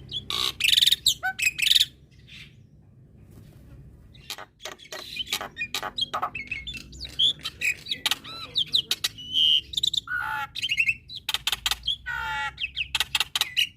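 Male black-winged myna (jalak putih) singing a busy, varied song of harsh clicks, chatters and short whistled notes. It drops to a lull about two seconds in, then starts up again around four seconds in and carries on densely.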